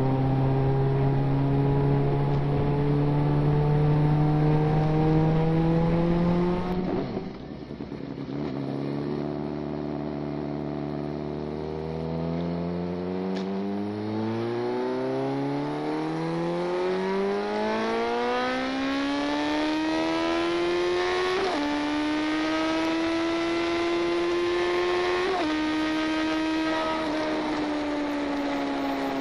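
2008 Suzuki GSX650F's inline-four engine through a Delkevic exhaust with the baffle removed, heard on the move from under the seat. The engine holds a steady note, then drops off the throttle about 7 s in. It pulls up through the revs in a long rising climb, with two sudden pitch drops from upshifts about 21 and 25 seconds in, then settles into a steady cruise.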